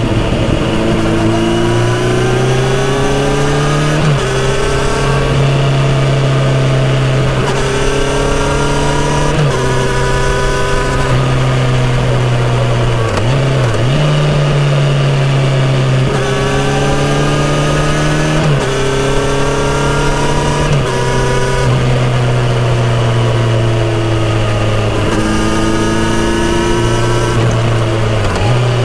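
Kawasaki Z900RS inline-four engine through a full-system exhaust, heard from the rider's seat while riding. The revs climb and drop again and again, about nine times, as the rider works the throttle through the gears and corners.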